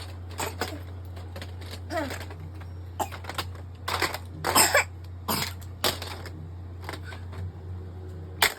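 Irregular clacks and knocks of a toy truck being handled and played with, a dozen or so short hits at uneven intervals, over a steady low hum.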